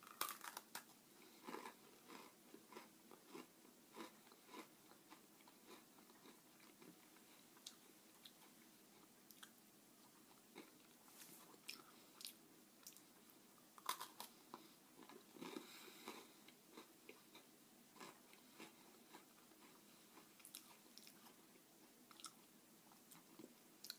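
A person biting into and chewing a S'mores Oreo, a sandwich cookie with graham-cracker-flavoured wafers, close to the microphone: quiet, irregular crunches and crackles of the cookie breaking up in the mouth.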